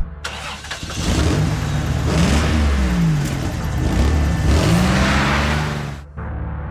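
Monster truck engine sound effect revving, its pitch rising and falling several times under a hissing rush, dropping away sharply about six seconds in before a steadier low rumble.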